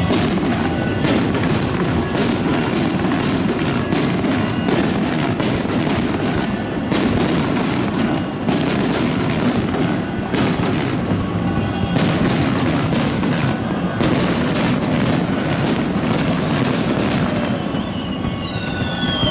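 Fireworks going off in rapid succession: many sharp bangs and crackles, several a second, overlapping over a steady rumble.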